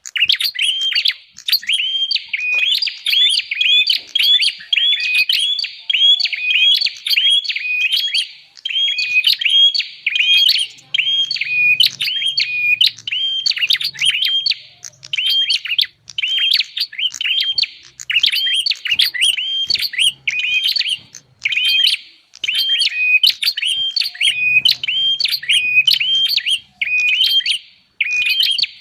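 Prenjak (prinia) lure call: rapid, repeated sharp chirps, a few each second, with short breaks every few seconds.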